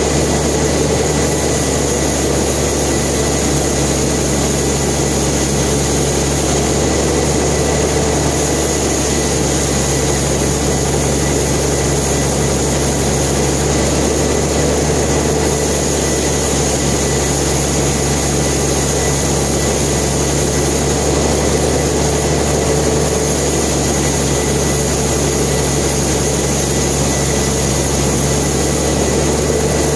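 Sawmill machinery running steadily: a constant mechanical drone with a thin high whine over it, unchanging throughout.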